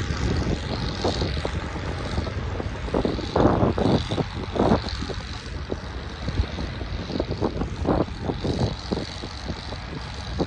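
Farm tractor engine running steadily while pulling a moldboard plow, with irregular short thumps over the engine rumble.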